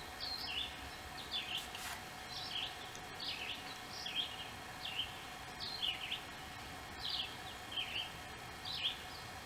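A songbird calling over and over: short high chirps that sweep downward, one or two every second, over a faint steady hum.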